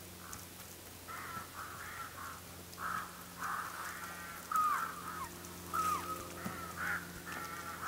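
Birds calling repeatedly: a run of short calls that begin about a second in, several sliding down in pitch.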